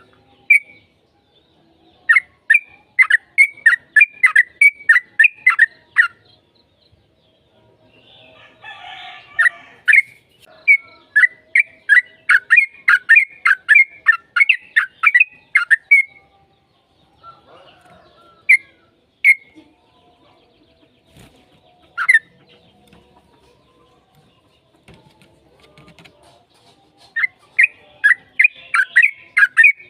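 Yellow-vented bulbul (trucukan) singing in three long runs of rapid, bubbly notes, about four to five a second, with a few single notes between the runs.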